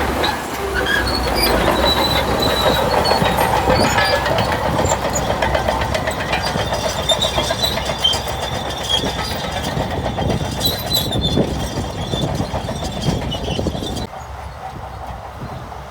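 Shantui crawler bulldozer at work: its diesel engine running under load, and its steel tracks clattering with high-pitched squeaks. The sound becomes quieter near the end.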